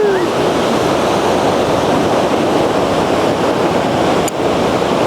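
Steady rush of strong wind and ocean surf at the beach, with no aircraft motor heard.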